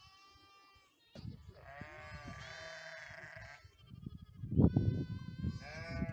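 Chios sheep bleating, several separate calls, among them one long quavering bleat about two seconds in and higher calls near the end. Under the calls is a low rumbling noise, loudest just before the five-second mark.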